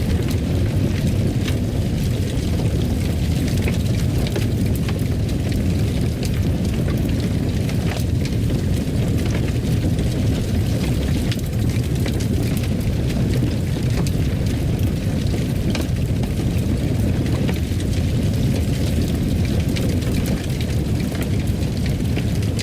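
Fireplace fire burning: a steady low roar with frequent small crackles and pops scattered throughout.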